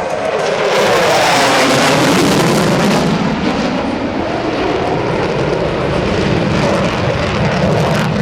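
F-15E Strike Eagle's twin turbofan engines in a low, fast fly-by, a dense jet roar that is loudest about one to three seconds in, then loses its high hiss as the jet moves away.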